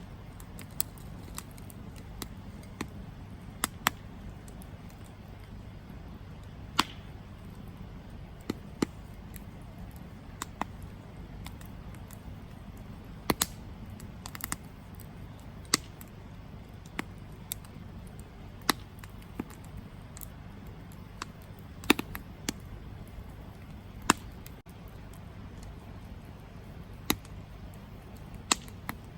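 Campfire burning: wood crackling and popping in sharp, irregular snaps, about one a second, over a steady low rumble.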